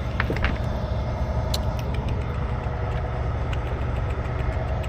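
Truck engine idling steadily with a low, even rumble, and a few light taps near the start.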